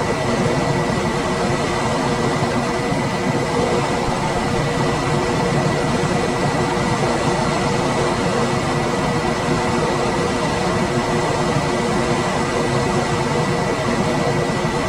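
Room air conditioner running steadily: an even rush of fan air with a steady hum and a thin, steady high whine above it.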